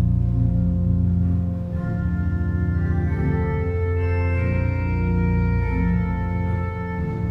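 Organ playing slow, sustained chords over a held bass, with higher notes joining about two seconds in.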